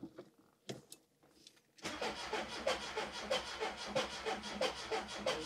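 Starter motor cranking the freshly rebuilt 16-valve four-cylinder engine of a MK2 Golf GTI on its first start attempt, after a couple of faint clicks. It gives an even pulsing of about three beats a second from about two seconds in, and stops after about four seconds without the engine catching.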